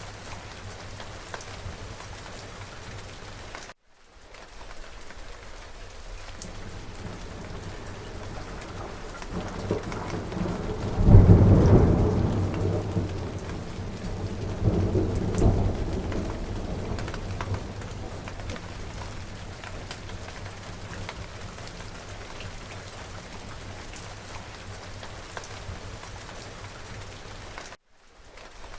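Steady rain falling, with a roll of thunder about eleven seconds in: a loud, deep rumble that swells again a few seconds later and then fades back under the rain. The sound cuts out for a split second twice.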